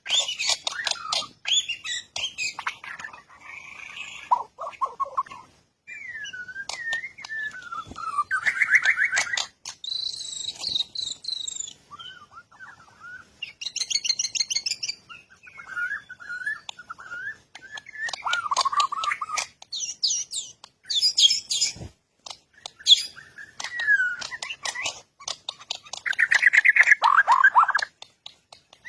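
Birdsong: varied phrases of gliding whistles, quick trills and sharp chirps, with short pauses between phrases.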